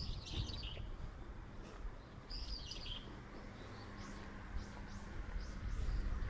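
Small birds chirping: a quick cluster of chirps at the start, another about two and a half seconds in, then a few short high calls later, over the dull thud of footsteps and a low background rumble.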